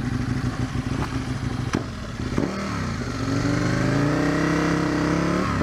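2005 Aprilia RSV Tuono's 1000 cc V-twin engine running under way, its revs dipping about halfway in and then climbing steadily as the bike accelerates. Wind rushes over the helmet microphone throughout.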